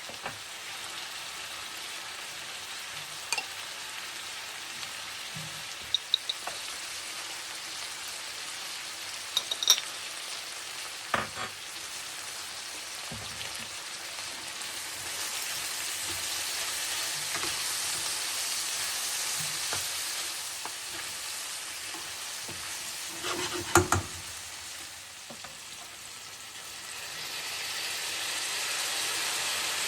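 Food sizzling and frying in a pan while it is stirred, with scattered sharp clicks and knocks of a utensil against the pan. The sizzle swells about halfway through and again near the end.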